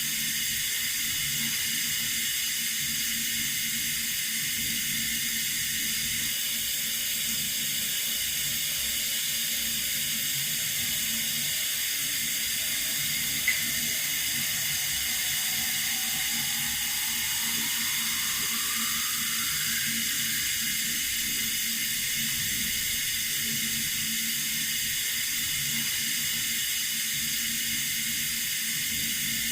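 Water running steadily from a tap: an even hiss. There is a single click about halfway through, and a faint rising tone follows a few seconds later.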